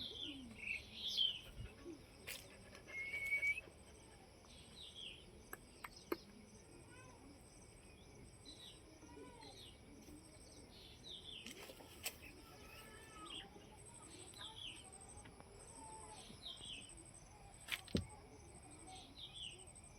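A bird giving short, high, falling chirps, repeated every second or so, with a few sharp clicks between them.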